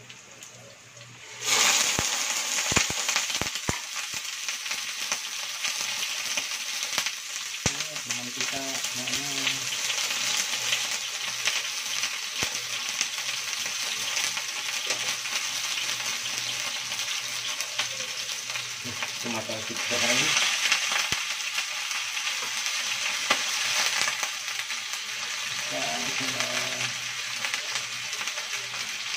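Raw chicken pieces going into hot oil in a nonstick frying pan: a sudden loud sizzle starting about a second and a half in, with a few sharp clicks as pieces hit the pan, then steady frying. The oil spatters because the chicken is wet.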